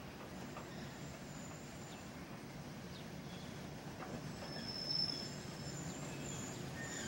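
An EH200 electric locomotive hauling tank wagons rolling slowly closer, a low rumble of wheels on rail that grows louder. Thin high wheel squeals come and go, with the loudest squeal about five seconds in.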